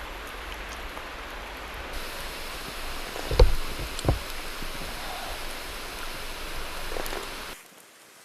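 Steady outdoor hiss with two sharp knocks, about three and a half and four seconds in. The sound cuts off abruptly near the end.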